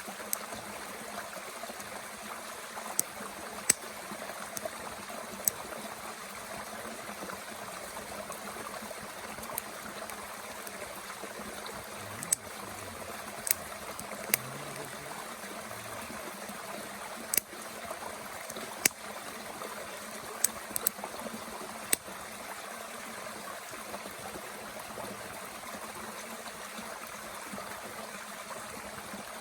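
A mountain stream running steadily, with sharp, irregular pops and crackles of wood burning in a Bushbox twig stove, most of them in the first two thirds.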